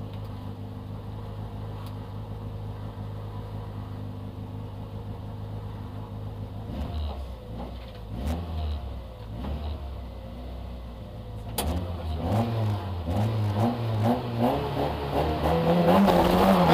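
Citroën AX GTI rally car's four-cylinder engine heard from inside the cabin, idling steadily at first, then blipped with the throttle in short revs from about seven seconds in. Over the last few seconds the revs climb and get louder, held up as for a standing start on the stage.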